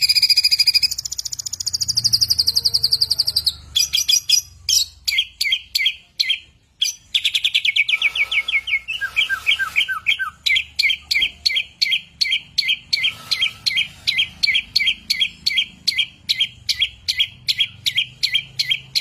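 Songbird singing fast, high-pitched phrases: rapid descending trills, then a long run of sharp repeated chirps, several a second.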